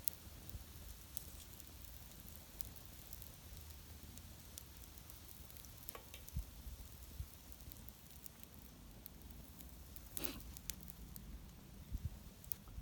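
Wood fire burning, a faint hissing with scattered small crackles and a couple of brief louder swishes.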